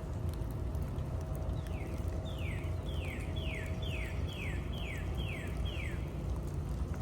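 A bird singing a run of about eight quick notes, each sliding downward, roughly two a second. A steady low city rumble runs underneath.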